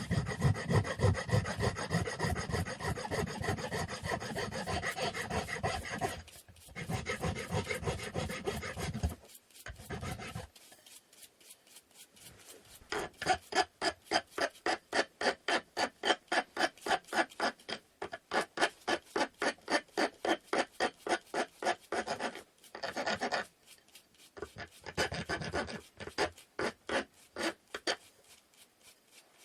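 Wood being hand-sanded: quick back-and-forth rasping strokes, about four a second, in runs broken by short pauses.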